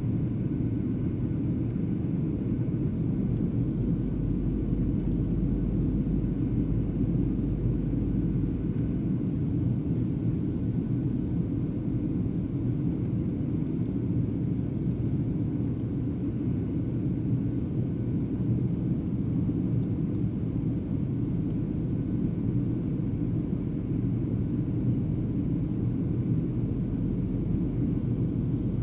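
Steady low drone of engine and airflow noise heard inside an airliner's passenger cabin as it flies in a holding pattern.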